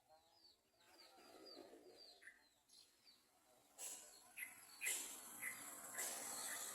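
Yellow-vented bulbul calls: a quick run of short, high, down-slurred chirps, then from about four seconds in several louder rustling bursts mixed with more calls.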